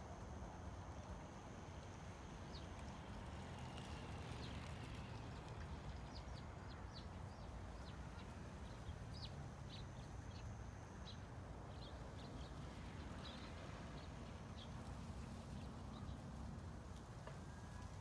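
Faint outdoor ambience: a steady low rumble, with a run of short, high clicks scattered through the middle and a thin, steady high tone that drops out partway through.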